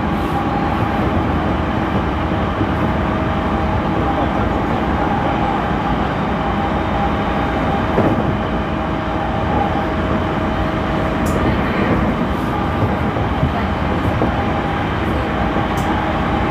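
Onboard running sound of a JR East E231 series electric train (renewed car): a steady rumble of wheels on rail with a constant hum from the drive equipment, and a single knock about halfway through.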